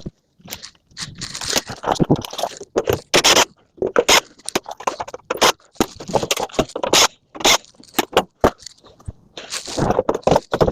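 Scrap metal being handled and sorted: an irregular run of scrapes, clanks and crunches with short gaps between them.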